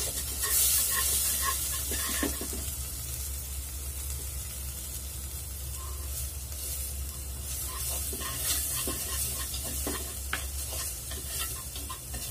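Dried shrimp and ground spice paste sizzling in hot oil in an earthenware pot, stirred with wooden chopsticks that click and scrape against the pot. The sizzle is louder in the first couple of seconds.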